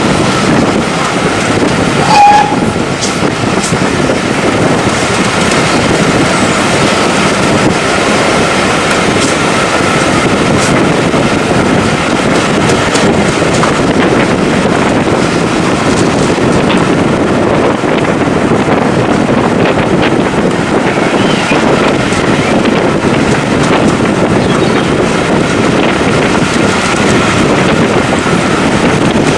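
Heritage railway train running, with a steady loud rumble and rattle of the carriages on the track. A short high note sounds about two seconds in.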